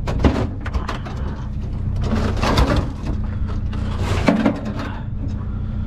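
A few sharp knocks and a scraping rattle of objects being handled, over a steady low engine hum.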